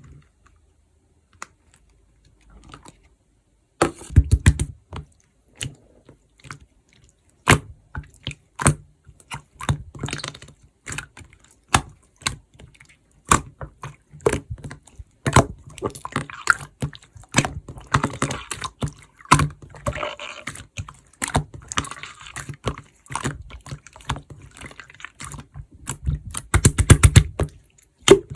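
Slime being squeezed, stretched and pressed by hand: a run of sticky clicks and wet pops, sparse at first and coming thick and fast from about four seconds in.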